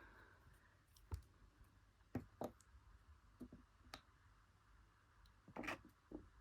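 Faint, scattered clicks and taps, about seven in all, spaced irregularly: small plastic figure pieces and packaging being handled.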